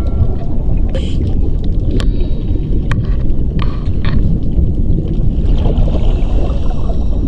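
Steady low rumble of wind buffeting the microphone, with a few sharp clicks scattered through it.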